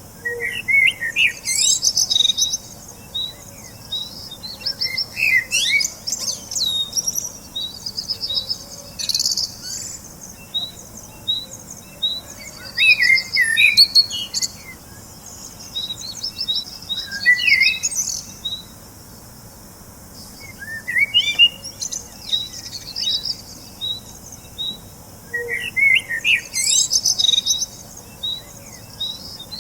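Small birds chirping and twittering in bouts every few seconds, with quick sweeping calls and a fast run of short, high repeated notes in between.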